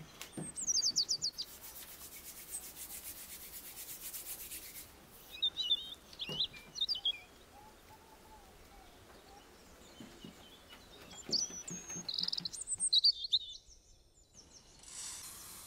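Small songbirds chirping in short quick phrases, several times, with a high, rapid rattling trill from about two to five seconds in. Faint soft knocks of hands pressing and shaping rice dough can be heard underneath.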